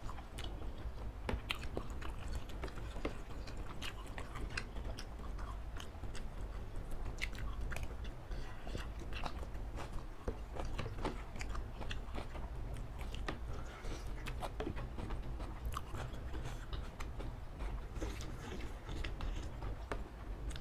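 Two people chewing and biting octopus and noodles from a spicy laksa soup, with many small mouth clicks scattered throughout over a steady low hum.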